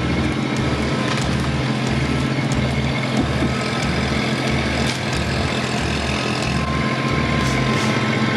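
Kubota compact tractor engine running steadily.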